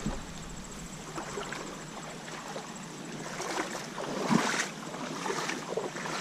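Shallow creek water running steadily, with a few louder splashes in the middle, the loudest about four seconds in.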